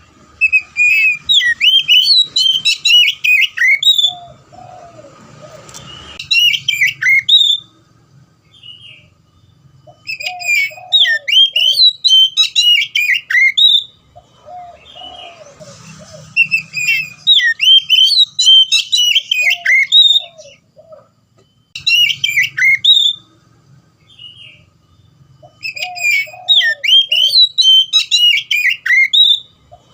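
Oriental magpie-robin (kacer) in full, loud song: rapid runs of varied whistled and chirped notes, each lasting a few seconds, with short pauses between them.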